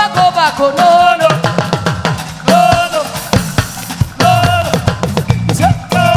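Live gospel praise band playing an upbeat number: a drum kit keeps a busy beat with snare and bass drum, under a bending melodic lead line.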